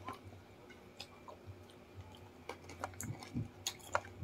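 People chewing and biting into chicken close to the microphone, with scattered short mouth clicks and smacks that come more often in the second half.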